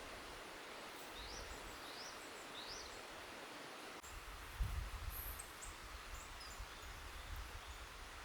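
Forest ambience: a steady rushing of a river under small songbirds calling, three quick rising whistled notes early on, then scattered short high chirps. A low rumble with a bump starts about halfway through.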